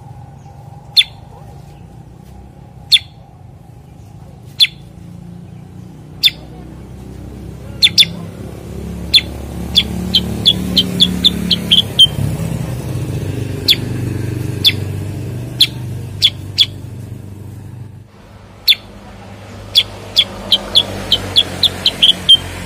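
Common iora (cucak kurincang) calling: single sharp chirps spaced a second or two apart, then a quickening run of notes ending in a longer note, heard twice. A low background hum runs underneath.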